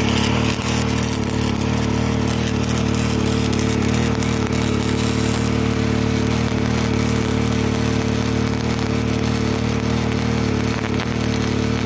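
Harbor Freight wire-feed (MIG) welder arc crackling steadily through one long weld bead, over the steady running of the portable generator that powers it under load. The arc cuts off near the end and the generator's pitch shifts as the load drops.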